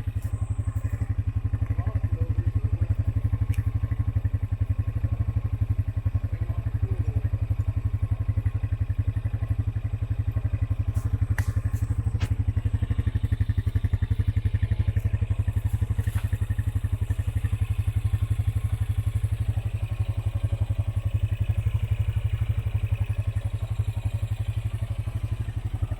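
Off-road vehicle engine running steadily at a low, even pace on a woodland trail, with no revving. A few sharp clicks or knocks come through near the middle.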